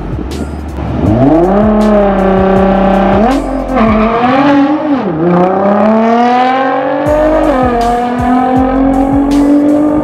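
Nissan GT-R's twin-turbo V6 brought up to a steady high rev on the start line, then accelerating hard down the drag strip, its pitch climbing through each gear and dropping at the shifts.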